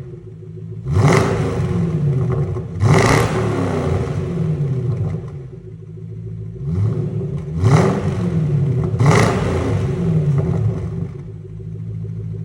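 Jaguar S-Type's supercharged V8 with a tuned exhaust revved repeatedly from idle: about four sharp blips that climb and fall back, then idling steadily near the end.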